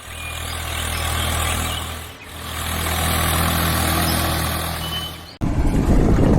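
An engine idling with a steady low hum, in two swells that fade in and out with a brief dip about two seconds in. Near the end it cuts off suddenly and a louder, busier sound takes over.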